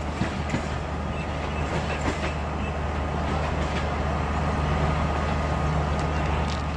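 Passenger train coaches rolling past slowly: a steady low rumble with scattered wheel clicks over the rail joints and a faint steady high whine.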